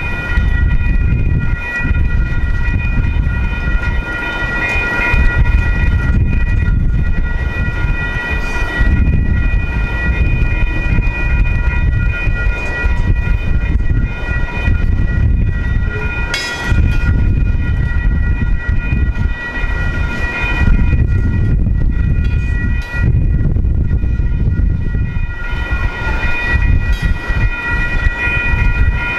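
Two freight trains rolling through a grade crossing on parallel tracks, a steady low rumble of wheels on rail. The crossing's warning bells ring steadily over it.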